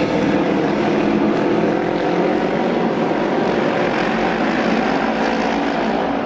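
Several Japanese Auto Race racing motorcycles running hard together as the pack laps the track, a loud, steady mix of engine sound.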